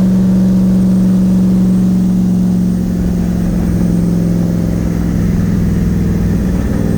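Twin-turbo Nissan VK56 V8 in a 300ZX running at a steady cruise, a steady drone that drops a little in loudness about three seconds in.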